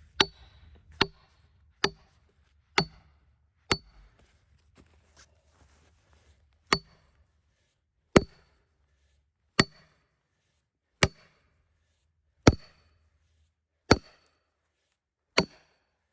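Hammer striking a steel splitting wedge driven into a cedar log, about a dozen ringing metal-on-metal blows: roughly one a second at first, then slowing to about one every second and a half.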